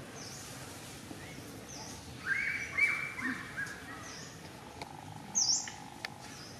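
Birds calling: short high chirps repeating about every second and a half, with a louder run of longer calls about two to three and a half seconds in.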